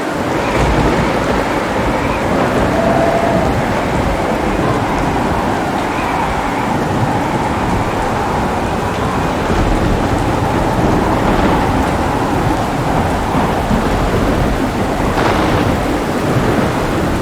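Heavy rain falling steadily with thunder: a deep rolling rumble breaks in suddenly at the start and keeps rolling on under the rain.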